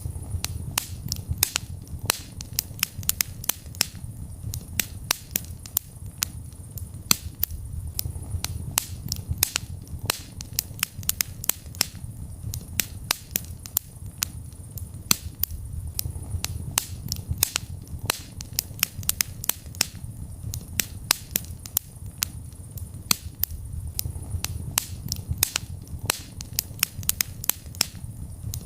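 Wood fire burning in a fireplace: sharp crackles and pops at irregular intervals, several a second, over a steady low rumble of the flames.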